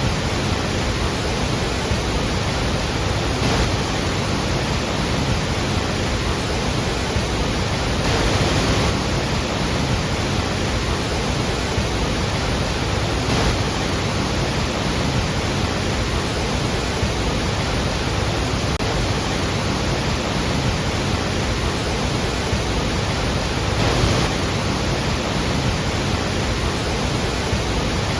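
Large waterfall roaring as a steady, dense rush of falling water, with slight swells now and then.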